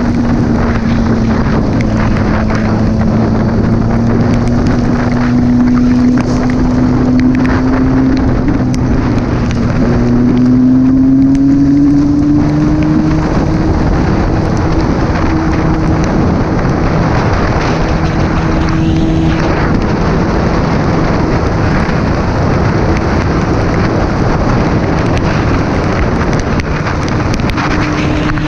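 Motor vehicle engine running on the road at cruising speed under heavy wind noise on the microphone; the engine note holds steady, rises about ten seconds in as the vehicle speeds up, then settles at the higher pitch.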